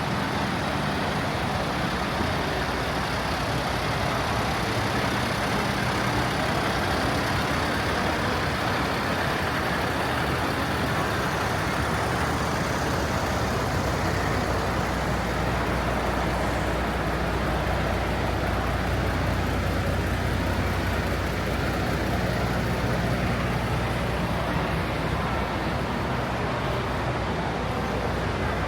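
Truck engines running steadily amid general outdoor noise, with a deeper low engine hum growing stronger about twelve seconds in.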